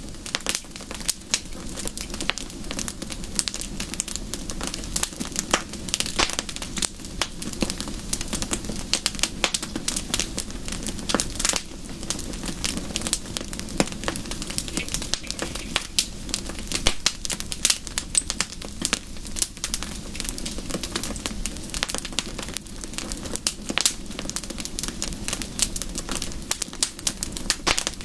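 Wood fire in a fireplace crackling steadily, with dense irregular pops and snaps over a constant low hiss of steady rain.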